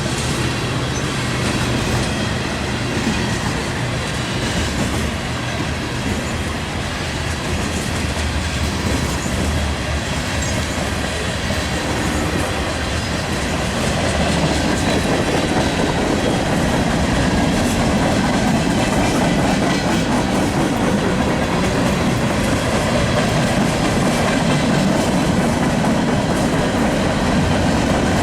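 Freight train rolling past, its wheels clacking over the rail joints with a steady rumble that grows louder about halfway through.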